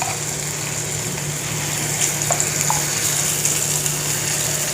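Hot oil sizzling steadily in a kadhai as moong dal pakodas fry, with a few faint pops.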